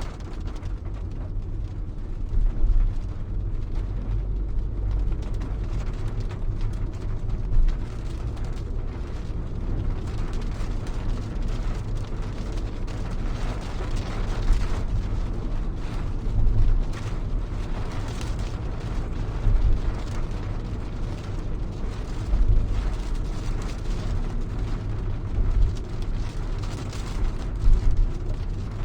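Rain falling on a car's roof and windows, heard from inside the cabin: a steady patter of drops over a deep low rumble, with brief louder spatters every few seconds.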